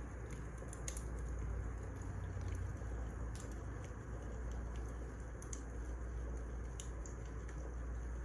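Wood fire crackling: a steady low rumble and hiss with sparse, irregular sharp pops of burning firewood.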